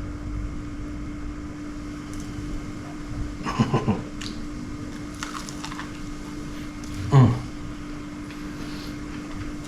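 A steady low appliance hum, with a short cluster of crisp clicks about three and a half seconds in, as a crunchy fried fish fritter is bitten and chewed. A brief low "mm" from the eater comes about seven seconds in.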